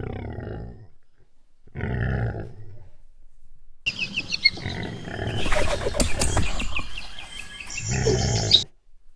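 A large animal roaring, as a sound effect: two low roars of about a second each, then a stretch of high, short chirps with low growling under them, and another low roar near the end.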